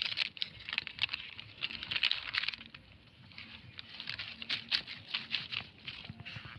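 Plastic litter and a plastic bag crinkling and rustling as they are handled: quick irregular crackles, dense for the first couple of seconds, then sparser.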